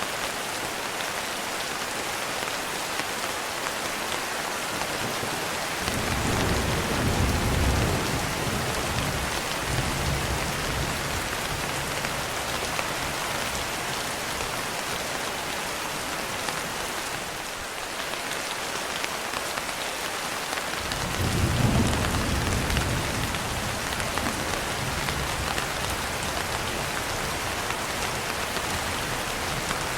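Steady rain falling, with two low rolls of thunder: one about six seconds in that fades after a few seconds, and a second, longer one starting about twenty seconds in.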